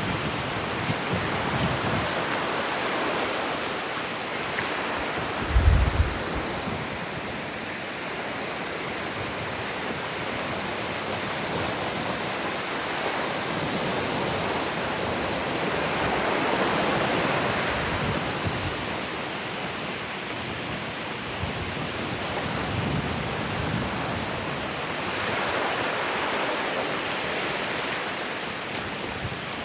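Ocean surf washing onto a sandy beach, the wash swelling and easing as waves come in. About six seconds in there is a brief low thump.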